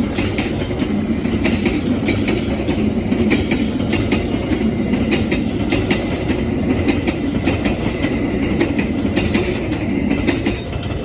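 Train passing close by: a steady rumble of wheels on rails with repeated clicks as the wheels run over rail joints, fading near the end.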